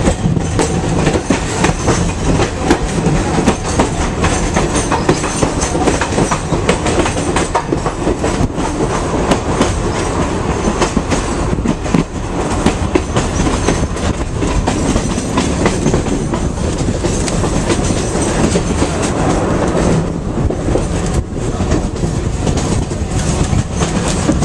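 Vintage electric train running, heard from inside its wooden carriage with the window open: loud, steady running noise with the wheels clattering over the rails.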